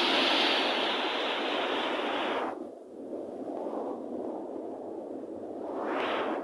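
Sea surf rushing in close by: a loud wash of water that falls away suddenly about two and a half seconds in, then builds again near the end as the next wave comes.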